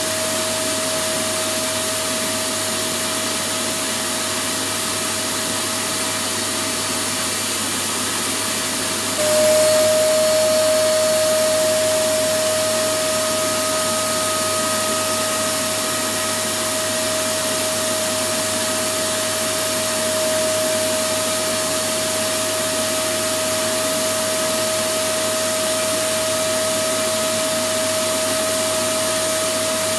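Vacuum cleaner running steadily, a constant rushing noise with a steady whine. About nine seconds in it briefly gets louder and the whine drops slightly, then settles back.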